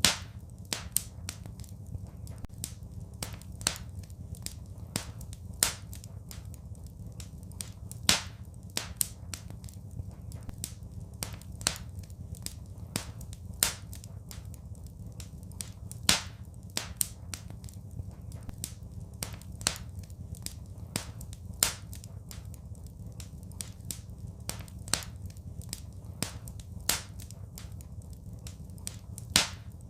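Fireplace fire crackling: irregular sharp pops and snaps, several a second, a few much louder than the rest, over a steady low rumble.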